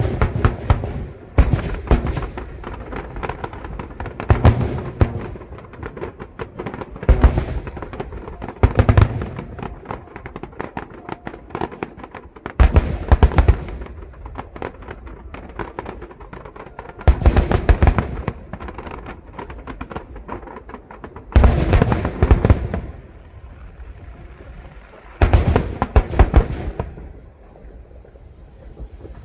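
Aerial fireworks bursting in rapid volleys: clusters of sharp bangs and crackling come every two to four seconds, with a lower rumble and scattered pops between the clusters.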